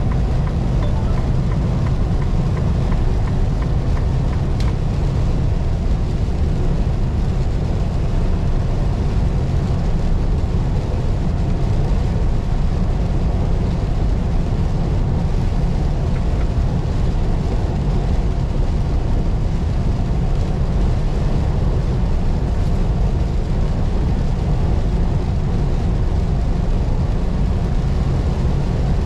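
Semi-truck's diesel engine and tyres heard from inside the cab while it drives on the highway: a steady, even low rumble with no change throughout.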